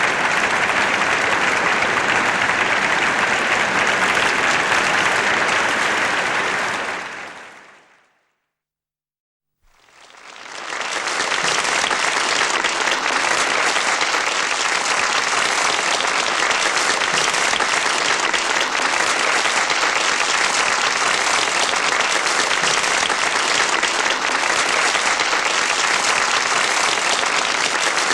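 Applause from a large audience, fading out about seven seconds in. After a second or two of silence, a second round of applause fades in and holds steady.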